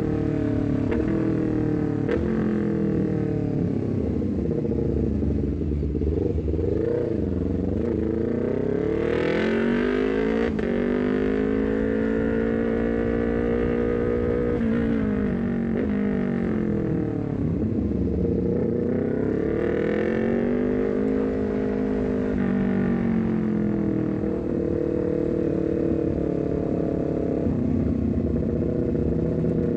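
Honda CBR250RR parallel-twin engine through an R9 full-system header and a short Leovince GP Corsa silencer, on the move. The pitch rises, holds high for a few seconds, falls, then rises and falls again as the rider accelerates and rolls off.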